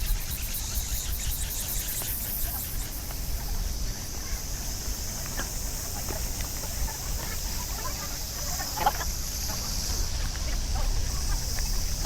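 Insects droning steadily in a high, even pitch, over a low rumble with a few faint ticks.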